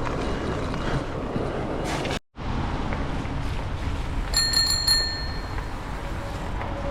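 Bicycle bell rung about four times in quick succession, a little over four seconds in, over the steady rumble of wind and tyres while riding.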